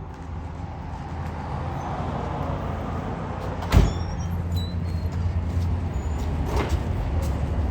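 Cammed 5.3-litre LS4 V8 of a 2008 Chevrolet Impala SS running through a full 3-inch straight-pipe exhaust, a steady low rumble that grows slightly louder. A sharp click a little past halfway, and a fainter one near the end.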